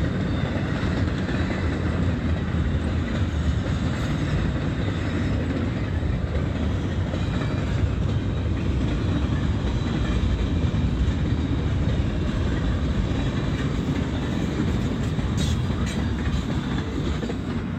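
Intermodal freight train rolling past, a steady rumble with the clatter of wheels over the rail joints.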